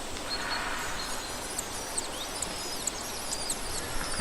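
Many short, high-pitched bird chirps, each quickly sweeping in pitch, over a steady background hiss.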